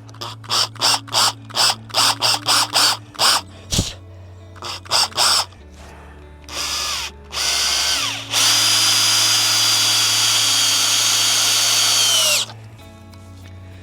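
Power drill driving screws: a quick string of short trigger pulses, a few more pulses, then two short runs and one steady run of about four seconds that cuts off.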